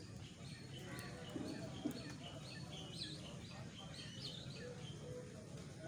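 A flock of guinea fowl calling, with many short chirping calls overlapping over a steady low background noise.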